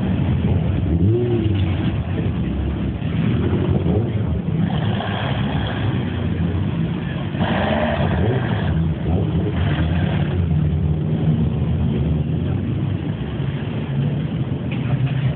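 Classic car engines running and revving, their pitch rising and falling again and again.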